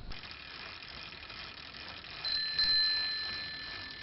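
Bicycle bell struck twice about two seconds in, a bright ring that fades away slowly, over faint outdoor background noise.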